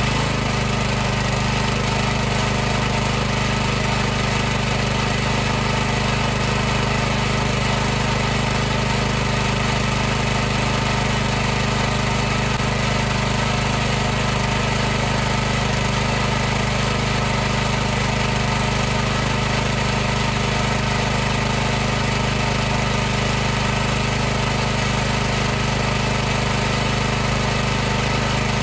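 High-pressure washer's pump and motor running steadily: a constant low hum with a hiss over it, with no change in speed or load.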